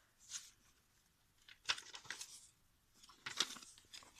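Paper rustling in several short, crisp bursts as the pages, tags and pockets of a handmade paper journal are handled and turned.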